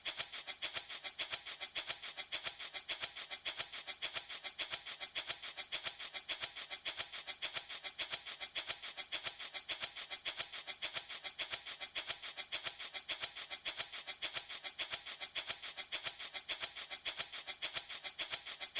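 Handmade baby rattle shaken in a fast, even rhythm, each stroke a crisp, bright rattle of small beads or pellets, repeating steadily as sleep-inducing white noise.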